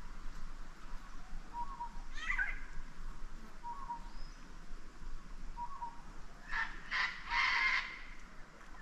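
Wild birds calling: a short note repeats about every two seconds, a falling whistle comes about two seconds in, and a run of louder calls follows near the end.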